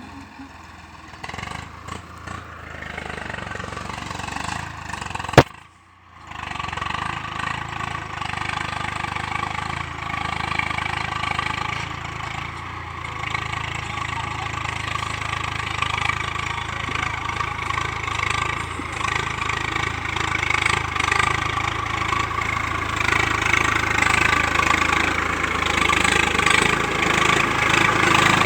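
Tractor engine running steadily, growing gradually louder, with a single sharp click and a brief dropout about five seconds in.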